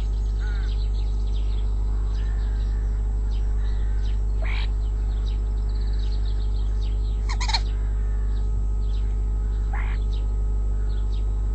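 Garden birds at a feeder calling: a busy mix of chirps, whistles and chatter, with a few louder short calls, the loudest about seven and a half seconds in, over a steady low hum.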